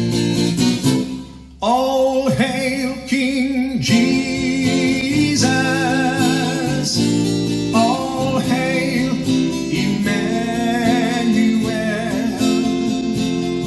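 Acoustic guitar strummed to accompany a voice singing a slow worship song; the music drops briefly about a second in, then the voice comes in over the guitar.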